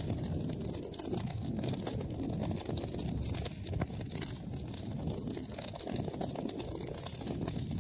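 Wood fire burning in a fireplace: a steady low rumble of flames with many small, quick crackles throughout.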